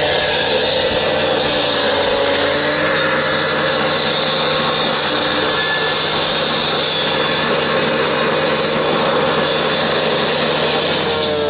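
A power tool running steadily and loudly, a continuous grinding, cutting noise with a faint whine in it, that cuts off suddenly at the end.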